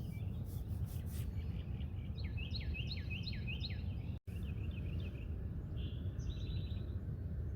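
Small birds chirping: a run of about six quick downward-sweeping chirps from about two seconds in, a few more calls after, and a short rapid trill near the end, over a steady low background rumble. The sound cuts out for an instant a little past halfway.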